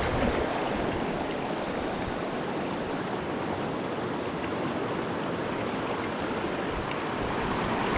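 Mountain stream water rushing steadily over rocks, an even noise. There are three faint short high ticks in the second half.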